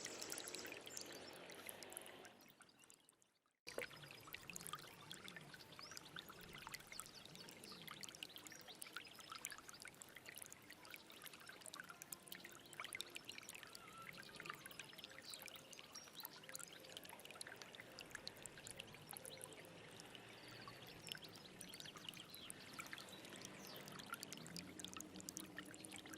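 Small stream of water trickling and babbling steadily. About two seconds in the sound fades out to silence, then cuts back in abruptly about a second and a half later, as at a splice in the recording.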